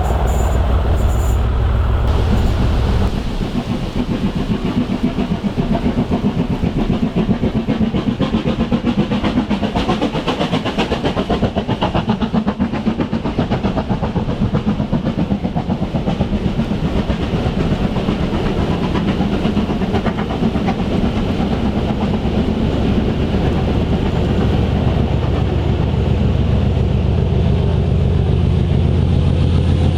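A train passing: a fast, steady clatter of wheels on the rails through most of it, with a low steady hum at the start and again near the end.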